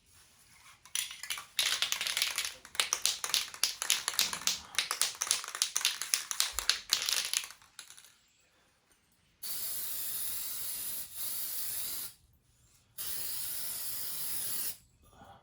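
Aerosol can of high-heat spray paint being shaken, its mixing ball rattling quickly for about six seconds, then three bursts of paint spraying with a steady hiss, the first two nearly run together.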